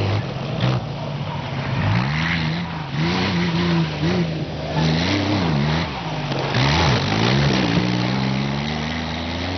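Off-road 4x4's engine revving hard as it drives through deep mud, the pitch rising and dropping again and again every second or so. Near the end it settles into a steadier drone that slowly climbs in pitch.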